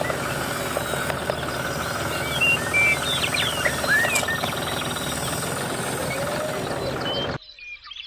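An engine running steadily with a fast, even pulsing rumble, with a few short high chirps over it about halfway through.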